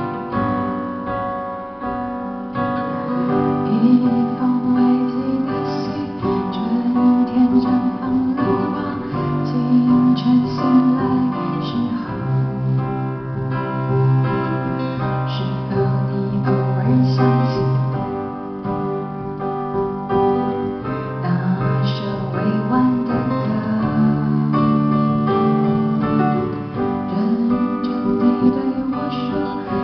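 Live band playing a slow pop song, with piano and guitar chords changing every few seconds.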